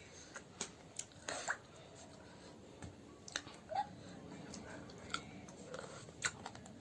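Close-up mouth sounds of someone eating duck, with irregular sharp clicks and smacks of chewing and biting.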